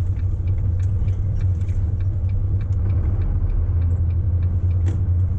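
Truck engine and drivetrain rumbling steadily, heard from inside the cab while driving, with scattered light clicks and rattles.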